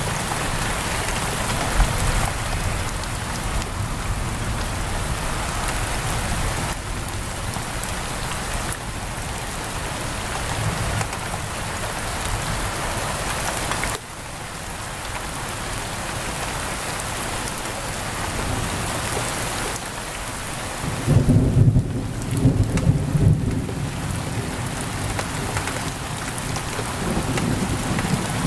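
Steady pouring rain on a window, with a low rumble of thunder from about two-thirds of the way through that is the loudest part.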